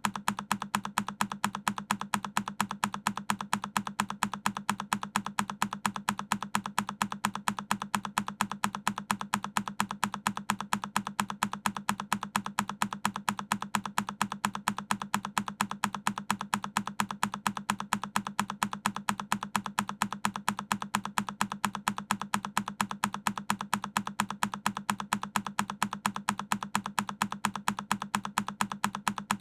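A single key on a Keychron K10 mechanical keyboard being pressed over and over as a loop: sharp, identical clicks repeating evenly several times a second.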